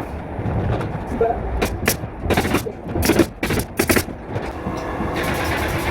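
Pneumatic nail gun firing a quick run of sharp shots, followed by a steady hiss near the end.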